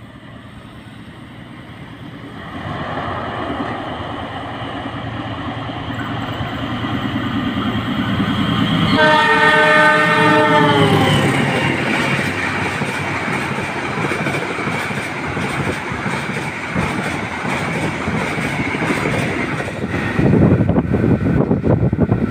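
A CC 206 diesel-electric locomotive hauling the Taksaka passenger train approaches and passes at speed, its engine and wheel noise growing louder. About nine seconds in its horn sounds for about two seconds and drops in pitch as the locomotive goes by. Then comes the steady clickety-clack of the coaches rolling past.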